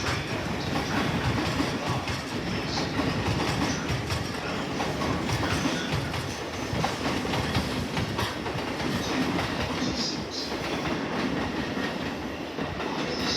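A train running along the rails through the station: steady rolling rumble with the clickety-clack of wheels over rail joints.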